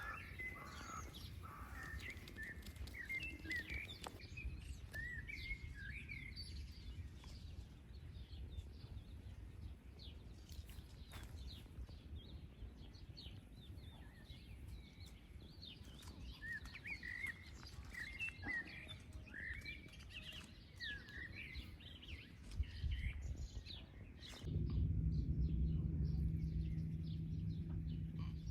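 Songbirds chirping and twittering in quick, busy phrases over a low wind rumble. About 24 seconds in, a steady low hum starts and carries on.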